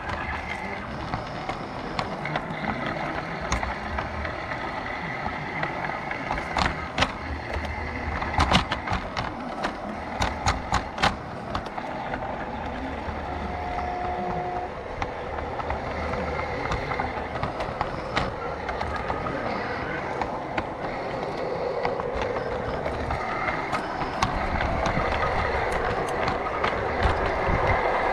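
G scale garden-railway train rolling on its track, its wheels clicking over the rail joints, with a run of sharp clicks about a third of the way in and a short steady tone about halfway; the running gets louder toward the end.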